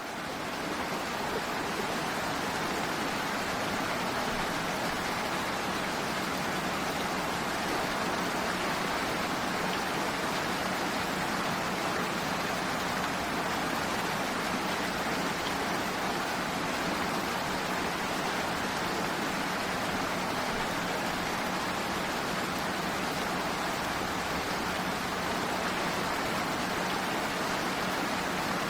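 Steady rain, an even unbroken hiss of falling rain that fades up during the first second and then holds level.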